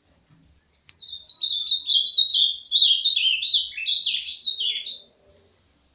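A songbird singing one song of about four seconds: a fast, unbroken run of notes that step up and down in pitch, starting about a second in.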